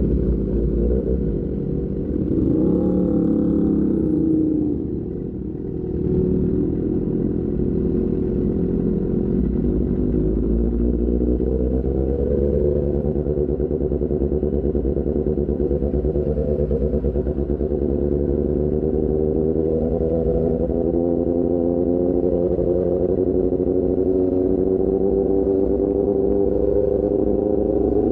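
Motorcycle engine running through an aftermarket AR GP1R exhaust while riding. The note drops briefly about five seconds in, then climbs slowly and steadily as the bike gathers speed.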